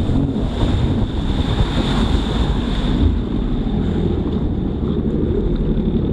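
Jet ski running on the water, its engine rumbling under the rush of water and heavy wind buffeting the microphone.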